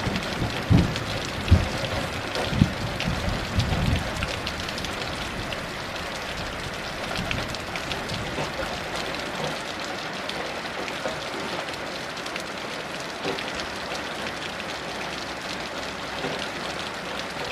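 Heavy rain falling steadily, with low thunder rumbling in the first few seconds and then dying away.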